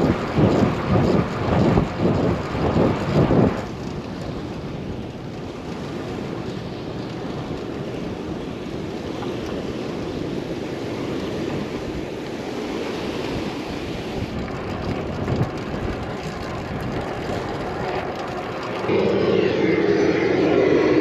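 Wind buffeting the microphone in gusts for the first few seconds, then a steady drone of a propeller airplane overhead. A louder engine sound comes in suddenly near the end.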